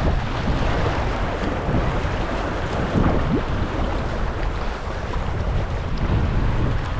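Wind buffeting the microphone in strong gusts, mixed with waves splashing around a sea kayak as it is paddled.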